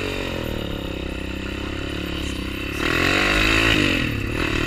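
Motorcycle engine running steadily, then louder about three seconds in, its pitch rising and falling as it revs.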